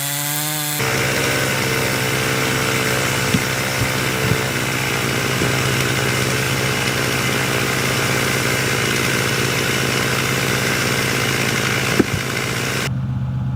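Gas chainsaw running at high revs and cutting through firewood logs; the cutting noise stops suddenly near the end while the engine keeps running.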